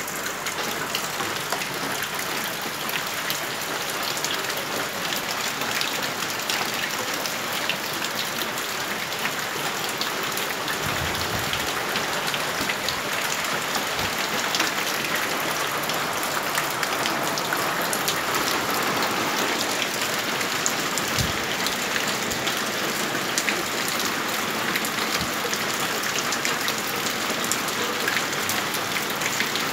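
Steady rain falling: an even hiss thick with the patter of drops. There are a few dull low thumps partway through.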